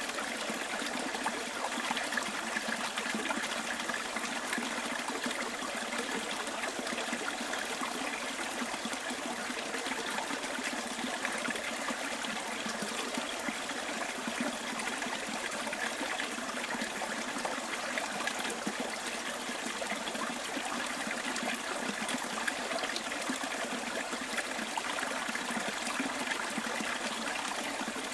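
Small stream running over stones, a steady trickling and burbling of water.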